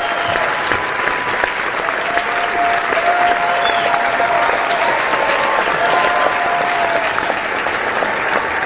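Crowd applauding steadily, many hands clapping at once in a dense, even patter. A few faint held tones ride over the clapping.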